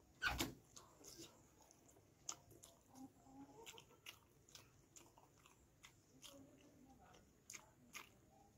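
Faint close-up chewing of rice and chicken curry, with scattered sharp wet mouth clicks and smacks. One louder thump comes about a quarter second in.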